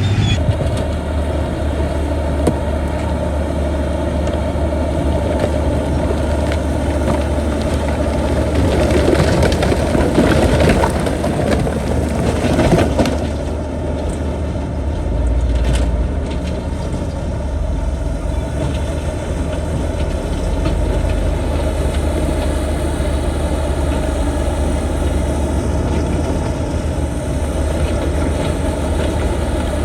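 Heavy diesel engine of earthmoving machinery running steadily, with a louder, rougher stretch of grinding noise about eight to thirteen seconds in.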